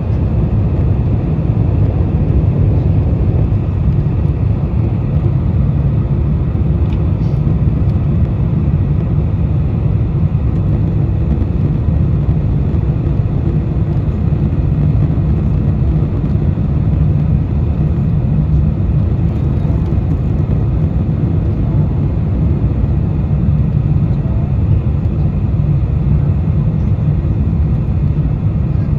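Steady low rumble of cabin noise inside a Boeing 747-400 airliner on approach, from airflow and engine noise.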